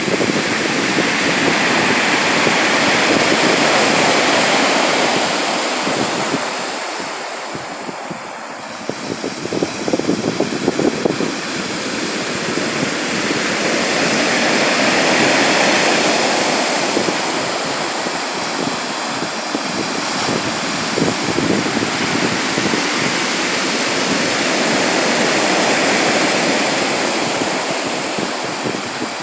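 Sea surf: waves breaking and washing in, the roar swelling and easing about every ten seconds, three surges in all.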